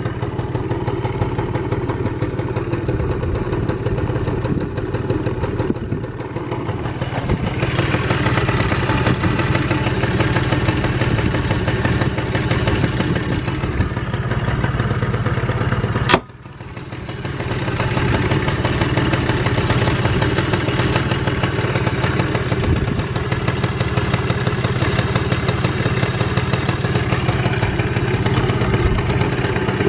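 Suzuki Hi-R 50cc two-stroke scooter engine idling steadily, with no unusual noises. About halfway through there is one sharp click, and the engine sound briefly drops and then comes back.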